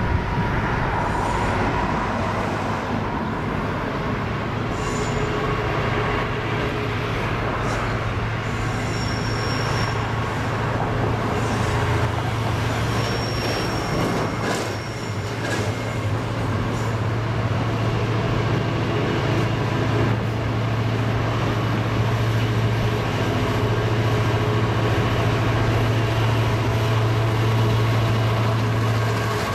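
Class 59 diesel locomotive's EMD two-stroke V16 engine running steadily under power with a deep drone as it hauls a train of loaded aggregate hopper wagons past, their wheels rolling over the rails and points. Twice a brief high wheel squeal rises from the wagons.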